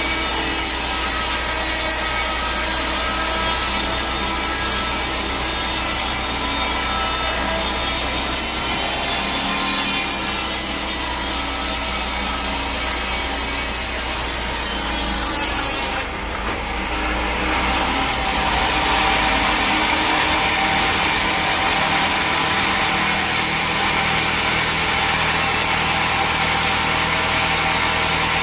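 Sawmill saw cutting through a teak log, a loud, continuous sawing. About halfway through the sound changes abruptly, and the machinery runs on at a steady level.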